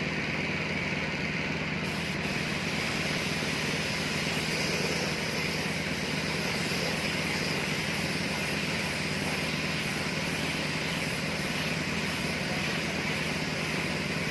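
A steady mechanical hum with a hiss over it, like a small motor running, unchanging throughout.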